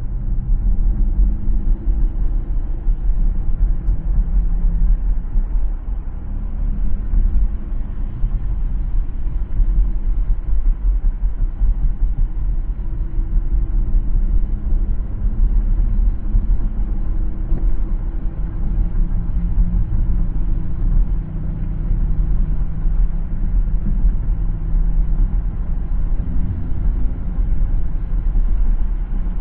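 Steady low road rumble of a car driving, its tyre and engine noise with a faint hum, picked up by a dashcam.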